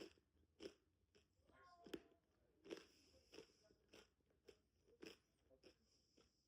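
A person chewing crunchy food close to the microphone, with a crunch about every half second.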